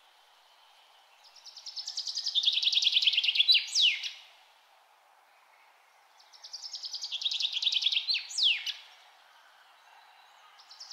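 A songbird sings the same song twice, a few seconds apart. Each song is a quickening trill of rapid notes that grows louder and steps lower in pitch, ending in two sharp downward-sliding notes. A faint, steady background noise runs underneath.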